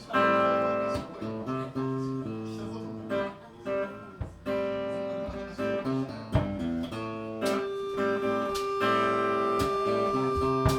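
Guitar playing a picked blues riff, live, with single notes and chords struck in a steady rhythm.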